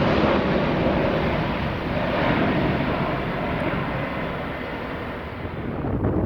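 Jet noise of an Airbus A350-900's Rolls-Royce Trent XWB engines at takeoff thrust, a steady noise that slowly fades as the aircraft climbs away, with some wind on the microphone.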